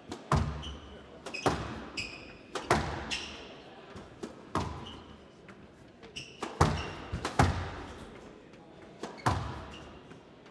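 A squash rally: the ball is struck hard with a racket and hits the walls, one sharp crack roughly every second, each ringing in the hall. Brief high squeaks of court shoes on the floor come between the shots.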